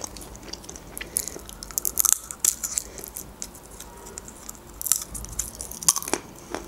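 Close-up chewing and crunching of nuts, with a scatter of sharp crunches that bunch together twice.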